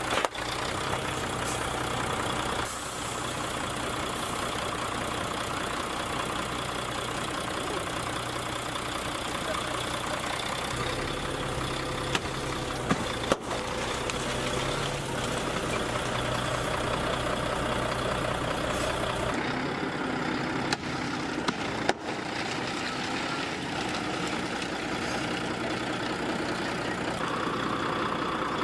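Truck engine idling steadily, its low hum changing character about two-thirds of the way through, with a few brief sharp cracks around the middle and later.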